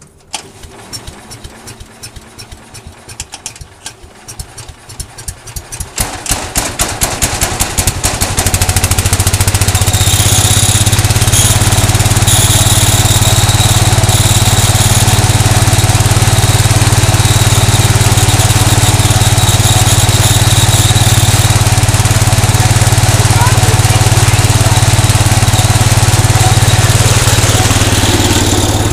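Cub Cadet 149 garden tractor engine on a cold start. It cranks with quickening ticks for several seconds, catches about eight seconds in, and runs loud and steady. It eases off near the end.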